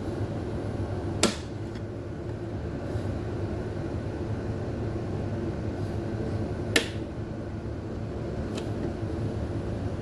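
Steady low hum of a refrigerator compressor running on a compressor starter/analyzer in place of its removed start relay, a sign that the compressor is sound and the relay and capacitor set is bad. Two sharp clicks come about five seconds apart, the first a little over a second in.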